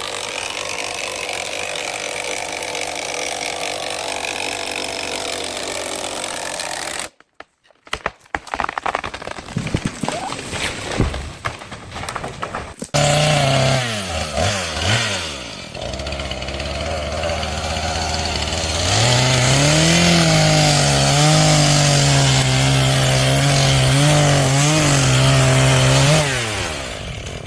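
Gas chainsaw cutting into a tree trunk: the engine revs up and down under load, then holds a high, steady pitch for several seconds before dropping away near the end. Before it, a steady rushing noise stops abruptly about seven seconds in, followed by a few seconds of scattered knocks and cracks.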